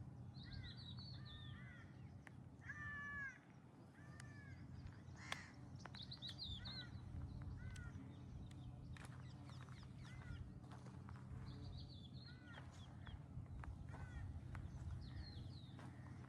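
Birds calling outdoors: short arching calls, repeated in clusters every second or two, over a steady low background hum, with scattered light clicks.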